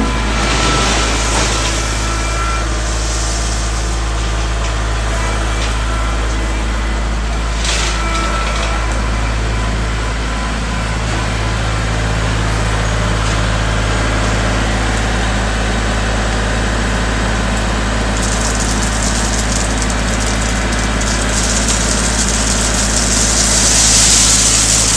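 Kubota L3301 compact tractor's three-cylinder diesel engine running steadily while gravel is spread. A louder rushing, hissing noise builds over the last few seconds.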